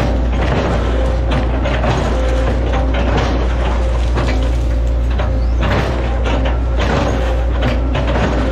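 Hitachi ZX110 excavator's diesel engine running steadily under load, with irregular cracks and crunches as it chops up an oil palm trunk.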